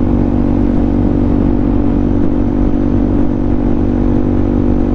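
Suzuki DR-Z400SM's single-cylinder four-stroke engine running at a steady cruise, its pitch holding even, with wind noise over it.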